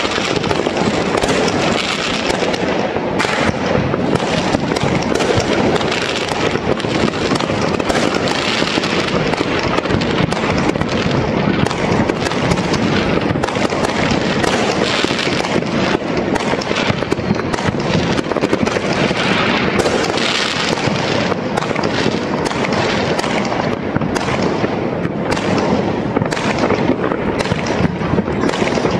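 Many fireworks and firecrackers going off at once, a dense, unbroken crackle of overlapping bangs and pops.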